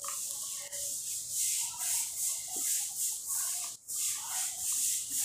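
Close-miked chewing of a buttered bread roll: a rustling, crackly mouth noise that pulses about twice a second, with a short break a little before the end.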